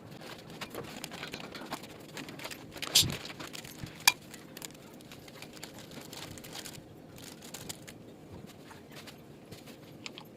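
Kitchen handling sounds while pasta is being prepared: light rustling and small clicks, with two sharp knocks about three and four seconds in.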